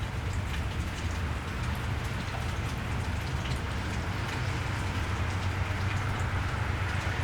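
Steady rain falling on a wet street, with scattered drops ticking close by over a constant low rumble.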